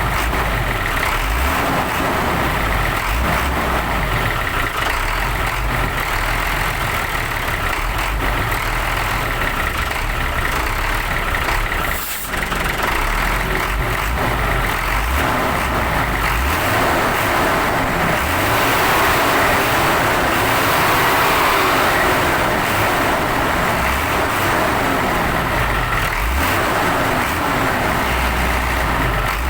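Hino 500 New Generation truck's diesel engine running steadily near idle, with a brief dip and a click about twelve seconds in and a slightly louder stretch a little later.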